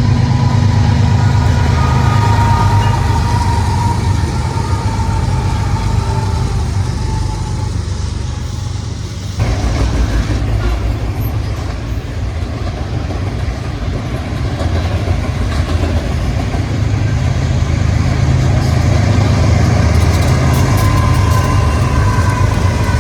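Diesel-electric locomotives running close by with a steady, loud, low engine rumble. An abrupt cut about nine seconds in switches to another passing train.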